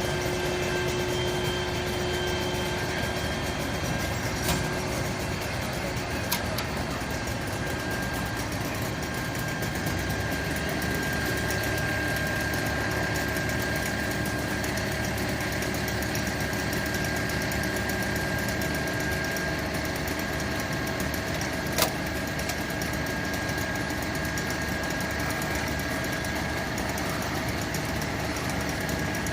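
A fire truck's engine running steadily at idle with a thin steady whine over it. A few short sharp clicks come through, the loudest a little past two-thirds of the way through.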